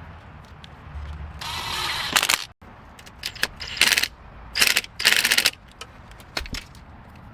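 Hand-tool work on a car: four short bursts of mechanical noise, each lasting under a second, with clicks in between.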